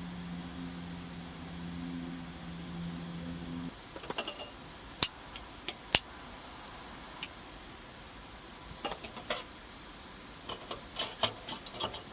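A steady low hum that cuts off a few seconds in, followed by scattered light metallic clinks and taps of camp cookware and utensils being handled.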